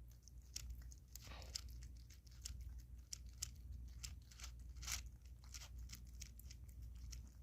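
A kitten chewing wet food quickly: faint, irregular wet clicks and smacks, several a second.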